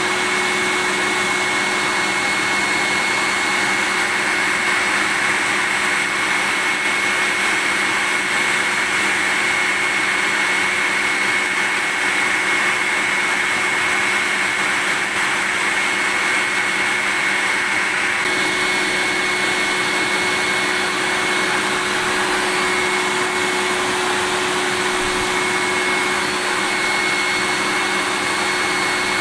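Vacuum cleaner running steadily: an even rush of air with a constant high whine from the motor.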